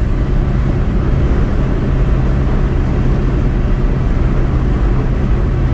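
Steady road and engine drone heard from inside a moving car, a constant low hum with tyre noise over it.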